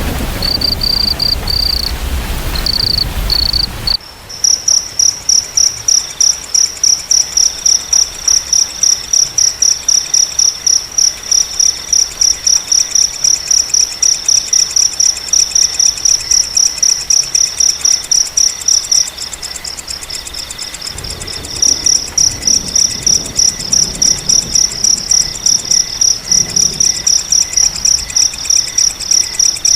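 Rain with a low thunder rumble for the first few seconds, then an abrupt change to crickets chirping. One loud, high-pitched cricket repeats short chirps about two to three times a second, with a second, lower cricket giving longer chirps underneath. The loud cricket stops for a couple of seconds about two-thirds of the way through, leaving a faint low rumble.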